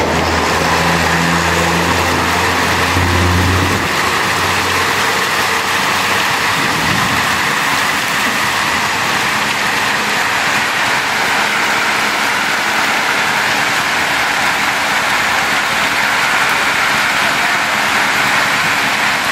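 Heavy rain hissing steadily onto a flooded street. A vehicle engine hums low through the first few seconds, then fades out.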